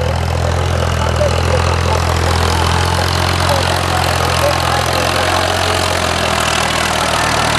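Tractor's diesel engine running steadily at a constant low note.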